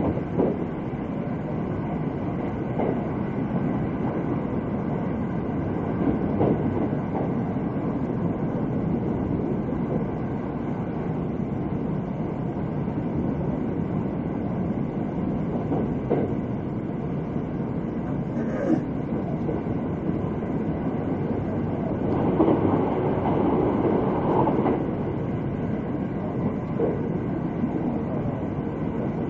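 Inside the passenger cabin of an electric limited express train running at speed: a steady rumble of wheels on rail with occasional faint clicks from the rail joints. The rumble grows louder for a few seconds about three-quarters of the way through.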